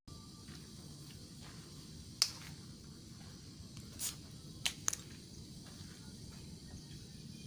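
A few scattered sharp clicks and knocks over a low, steady background rumble.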